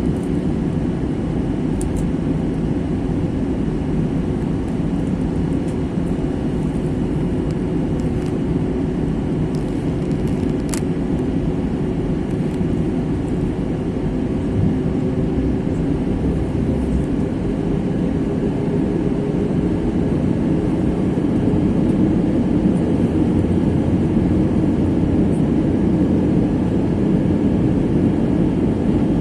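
Airbus A321 jet engines and airframe rumble heard inside the passenger cabin, a steady drone with a single engine tone that rises slightly in pitch and gets a little louder in the second half, as the engines are brought up.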